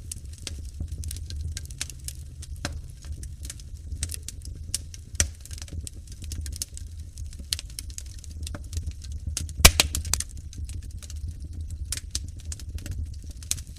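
Wood fire crackling in a fireplace: scattered sharp pops and snaps over a low steady rumble, with a loud cluster of pops about ten seconds in.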